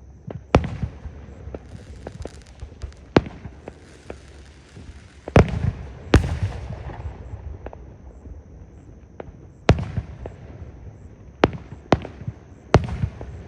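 Fireworks display: aerial shells bursting in a string of sharp booms at uneven intervals, the loudest two about five and six seconds in, with crackling between about two and five seconds in.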